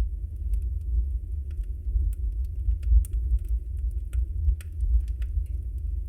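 Logs burning in a fireplace: a steady low rumble of the flames with frequent sharp, irregular crackles and pops, several a second.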